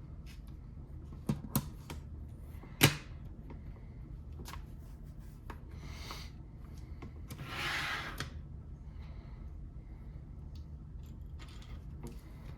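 Lego pieces being handled: a few sharp plastic clicks, the loudest about three seconds in, then a rustle of loose pieces being rummaged near the middle, over a steady low hum.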